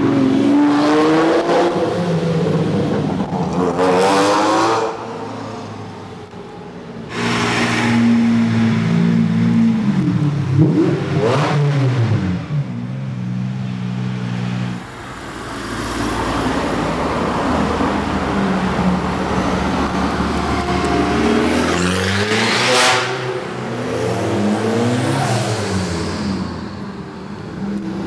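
Sports cars revving and accelerating hard through a road tunnel, one after another, each engine note climbing in pitch and then falling away as the car passes.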